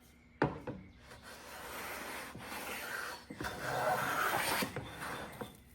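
A #5 1/2 steel jack plane knocks down onto the wood about half a second in, then shaves along the edge of a walnut board in two long hissing strokes, the second louder, cutting fine see-through shavings.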